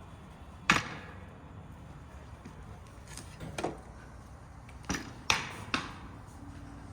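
About five sharp metallic knocks and clanks during fitting of the motorcycle's wheel and axle. The loudest comes about a second in, and a quick cluster follows near the end.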